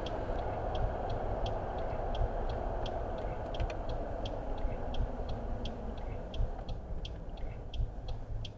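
Car cabin road noise, a steady low rumble, with a turn indicator ticking about two to three times a second as the car leaves the highway.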